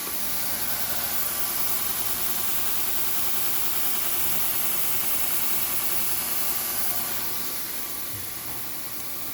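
2x72 belt grinder driven by a variable frequency drive, running at speed after its speed knob is cranked up: steady motor hum with belt hiss, easing a little near the end.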